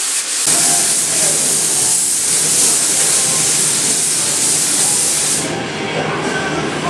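Compressed-air spray gun spraying polyester primer: a steady hiss of air and atomised primer that starts about half a second in and cuts off near the end.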